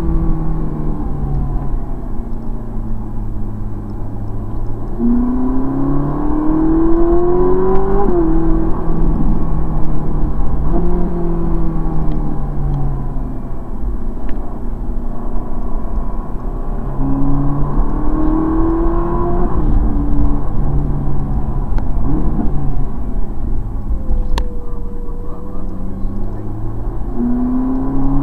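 Ferrari 458 Italia's 4.5-litre V8 heard from inside the cabin on the move: its pitch climbs as the car pulls, then drops sharply at each upshift, several times over, above a steady low road rumble.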